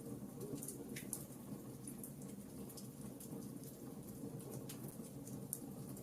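Logs burning in a fireplace, with a steady low hum of flame and frequent small crackles and pops scattered throughout.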